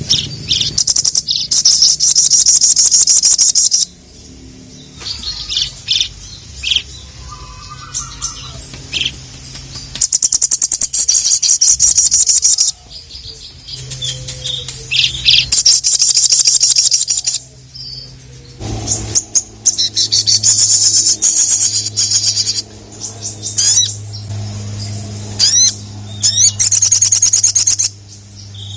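Ruby-cheeked sunbird (sogon) singing at full output: bursts of rapid, high-pitched chirping trills lasting a few seconds each, broken by short pauses. A faint steady low hum runs underneath.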